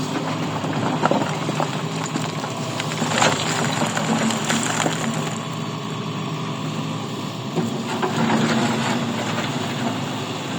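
Engine of a mining machine running steadily, with a few sharp knocks, about a second in and again around three seconds in.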